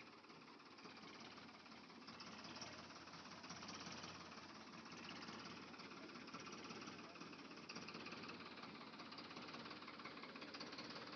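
A small motor running steadily and faintly, a little louder from about two seconds in, with a fine rattling texture like a toy vehicle's gear motor.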